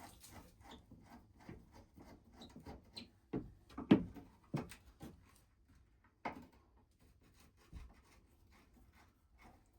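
Wooden parts being handled: irregular light clicks and rubbing, with a few sharp knocks of wood on wood, the loudest about four seconds in.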